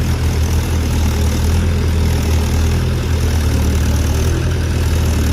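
Heavy vehicle's engine running steadily at an even, low pitch, with no revving.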